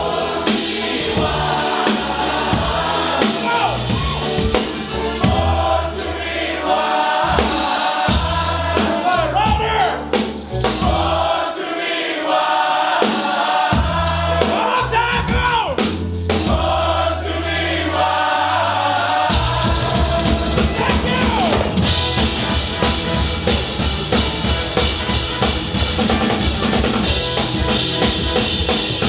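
Live band playing a bluegrass-style cover of a metal song, with singing over drums. About two-thirds through, the singing drops away and fast, steady drumming takes over.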